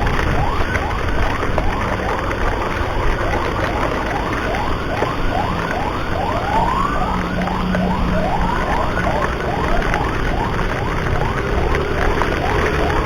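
Emergency siren in a fast yelp, short rising wails repeating a few times a second without a break, over a steady low rumble of wind and road noise.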